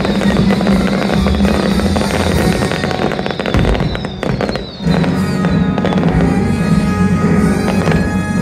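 Fireworks bursting and crackling over loud orchestral show music. The music thins and dips briefly about halfway through, then comes back in full.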